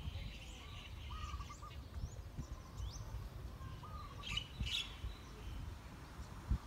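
Several birds calling and chirping: a repeated wavering call comes a few times, high chirps are scattered throughout, and a louder cluster of chirps comes about four and a half seconds in. Underneath runs a gusty low rumble of wind on the microphone, with a brief thump near the end.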